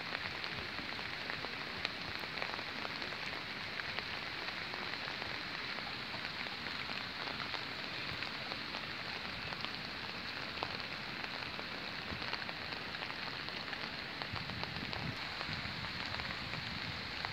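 Steady rain falling: a constant hiss dotted with many small drop ticks.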